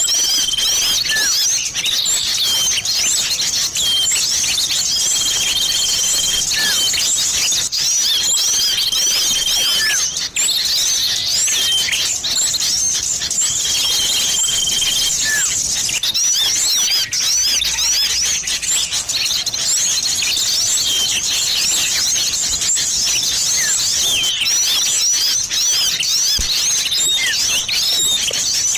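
Bird-lure recording of many small songbirds calling at once: a dense, unbroken chatter of high twittering chirps, cut through every few seconds by a long, level whistle lasting about a second and a half. It is billed as a mix of sirtu and cipoh (common iora) calls.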